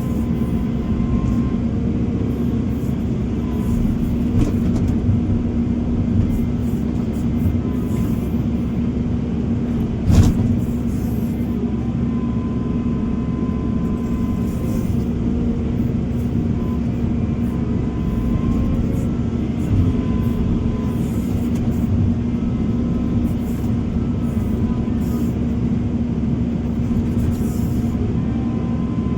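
Heavy construction machinery engine running steadily with a deep drone, with one sharp clunk about ten seconds in.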